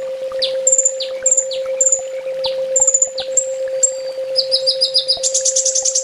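Brown-throated sunbird (kolibri ninja) singing: a string of sharp high chip notes, each with a quick downward slur, two or three a second, breaking about four seconds in into a fast, loud trill. A steady low hum runs beneath.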